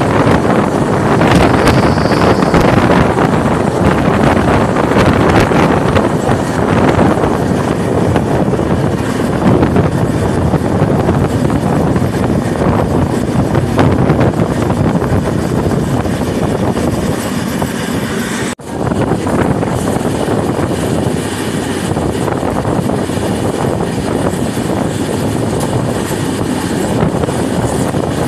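Steady rush of wind and running noise from a passenger train moving at speed, heard from an open coach doorway with the wind buffeting the microphone. The sound cuts out for a split second about two-thirds of the way through, then carries on.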